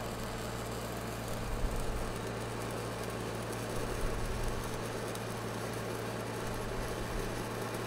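Lincoln 300D diesel engine-driven welder running steadily, under the even crackle of a stick-welding arc as a 6010 rod is run on pipe.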